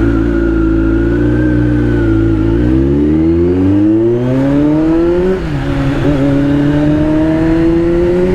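Kawasaki superbike engine through a newly fitted aftermarket exhaust, pulling under acceleration. The pitch holds for a couple of seconds, then rises, drops at a gear change about five seconds in, and climbs again.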